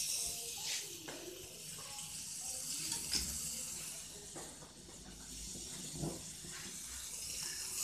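Steady high hiss of skewered chicken frying in a flat pan on a gas stove, with a few small clicks and knocks.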